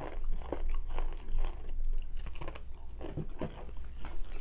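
Close-miked chewing of a mouthful of fried chicken: irregular bites and wet mouth clicks.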